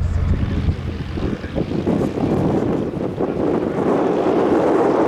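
A propeller airplane's steady engine drone, which stops under a second in. A loud, gusting rush of wind buffeting the microphone then takes over.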